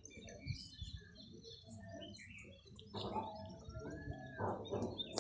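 Birds chirping: many short, high chirps, with louder chatter and calls starting about three seconds in.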